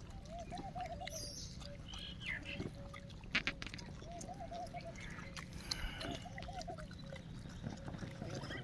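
A bird calling in three short runs of quick, evenly pitched notes, with a few faint clicks between them.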